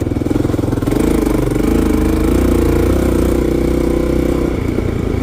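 1990 Yamaha XT350's single-cylinder four-stroke engine running while the bike is ridden, pulsing steadily with small rises and falls in pitch as the throttle changes, a little louder from about a second in.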